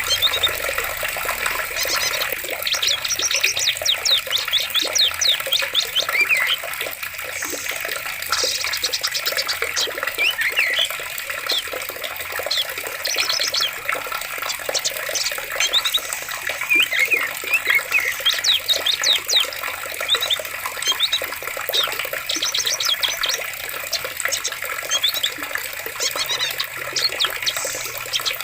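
Running water, steady, with many birds chirping and trilling over it throughout.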